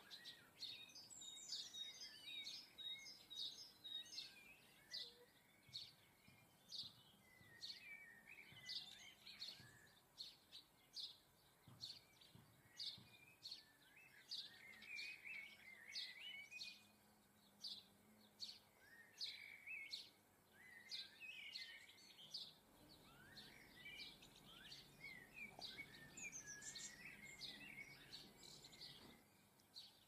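Faint chirping and twittering of small garden birds: many short, high chips a couple of times a second, with bursts of twittering song mixed in.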